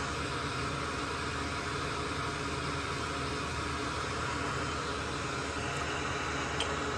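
Steady fan-like hum and hiss, with a faint click near the end.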